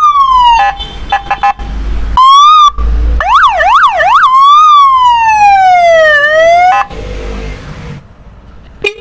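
Electronic police-siren horn for a motorcycle being tested, cycling through its tones: a fast up-and-down warble, short steady beeps and a slow falling wail that turns back up. It stops about seven seconds in.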